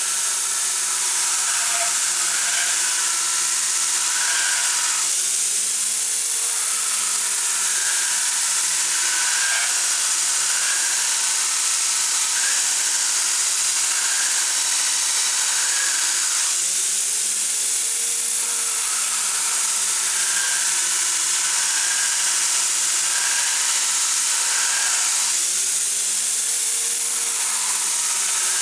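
Power grinder working steel: a steady, harsh hiss, with the motor's pitch rising and falling slowly a few times.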